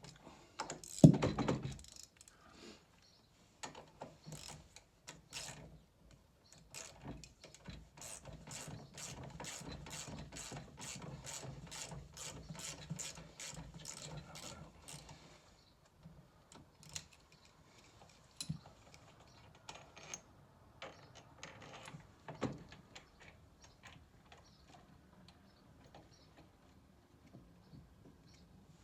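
Ratchet spanner clicking in quick, even strokes while working bolts on a stairlift motor mounting, after one loud knock about a second in; scattered clicks and taps of tools follow.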